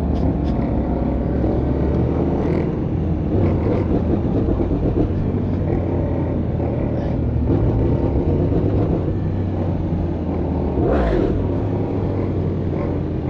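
Sport bike engine running steadily at cruising speed under heavy wind rush, with no big revs. A brief higher sound cuts in near the end.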